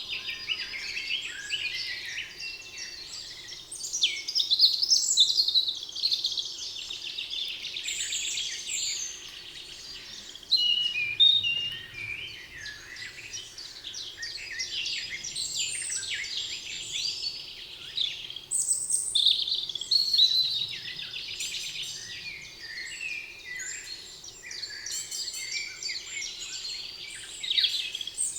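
Several songbirds singing and calling over one another in a dense chorus of short chirps, trills and whistled phrases.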